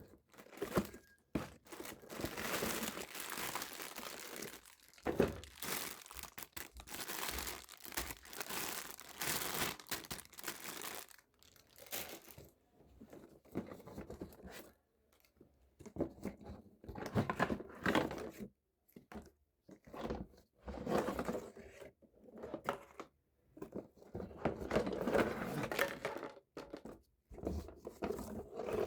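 Packaging of a toy play set being torn and crinkled by hand. There is a long stretch of crinkling and tearing over the first ten seconds or so, then shorter bursts with brief pauses between them.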